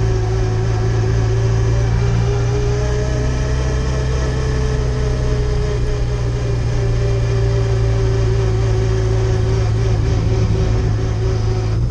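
Lada 2107 Group A rally car's four-cylinder engine running at steady low revs, heard from inside the cabin as the car rolls slowly.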